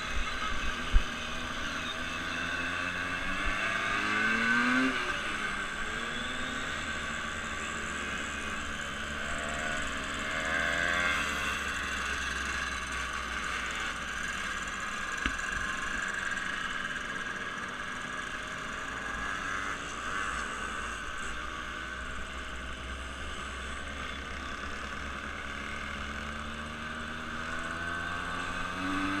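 Engine noise with its pitch rising and falling a few times over a steady drone, with a short sharp knock about a second in.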